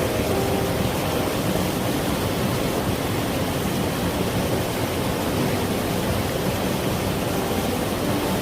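Valley stream water flowing steadily.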